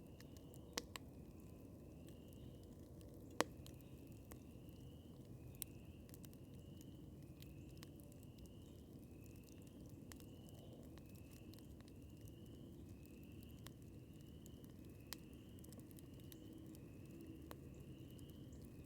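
Outdoor wood campfire crackling softly, with a few sharp pops, the loudest about three seconds in. A faint, short rising chirp repeats steadily in the background, a little faster than once a second.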